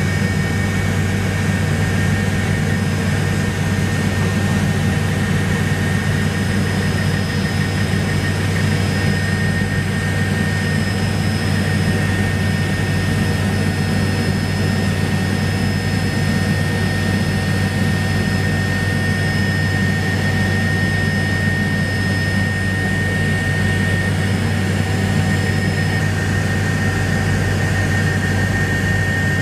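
Helicopter in flight: a steady, even engine and rotor drone with a thin high whine held over it.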